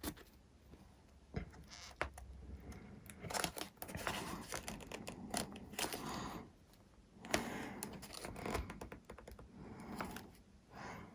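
Irregular small clicks and scratches of hands working on foam airframe parts as a broken piece is fitted and glued back on. The noise comes in two busy stretches with a few single clicks before them.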